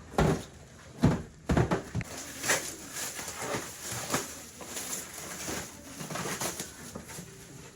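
Irregular knocks and clatter of parts being handled, with a few louder knocks in the first two seconds.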